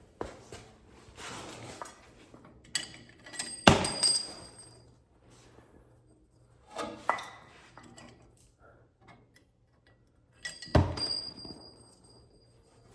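Loose steel hardware, washers and tools, clinking and knocking as it is handled, with two sharper metal clanks about four and eleven seconds in that each ring briefly.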